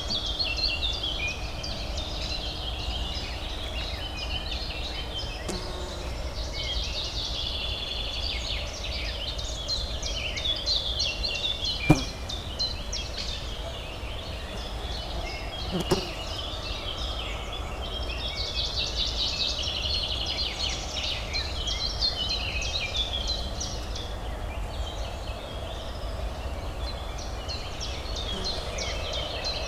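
Many songbirds chirping and trilling together over a steady low city hum, with two sharp clicks about four seconds apart near the middle.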